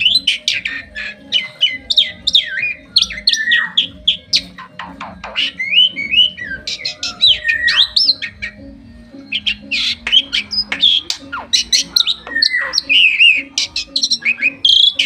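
Pet jalak (starling) singing a busy, varied song of whistles, squawks and chirps, many notes swooping down in pitch, with short pauses between phrases.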